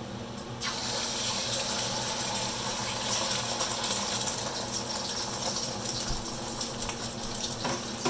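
Beaten eggs hit hot oil in a wok and sizzle, starting suddenly about half a second in and continuing with a steady crackling hiss.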